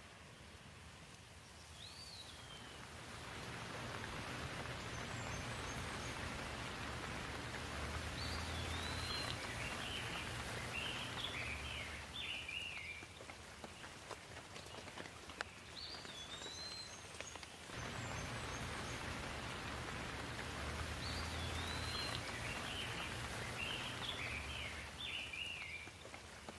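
Steady rain falling, swelling in about three seconds in, with a low rumble underneath and birds chirping in several short runs.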